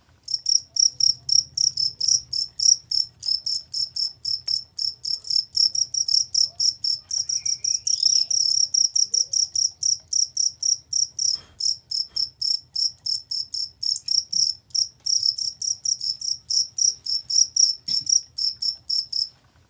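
Cricket (jangkrik) chirping loud and clear in a fast, even train of short, high chirps, about five a second, with brief breaks at the very start and just before the end.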